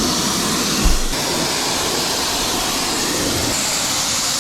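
Pressure washer spraying water over the car's paint: a loud, steady rushing hiss. There is a short low bump about a second in.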